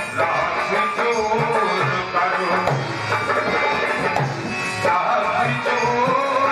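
Instrumental passage of Hindi devotional music: tabla playing a steady rhythm under a melody line that bends up and down in pitch.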